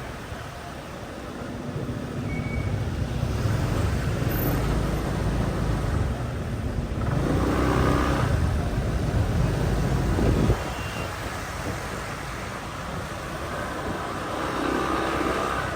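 Motorbike and street-traffic noise heard while riding: engine and road rumble that grows louder over the first several seconds, then drops off suddenly about ten and a half seconds in.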